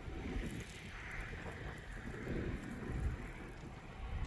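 Blizzard wind buffeting the microphone, a steady low rumbling noise.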